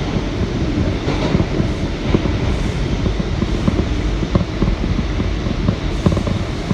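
R179 subway car running on the rails, heard from inside the car: a steady rumble with frequent sharp, irregular clicks of the wheels over the track.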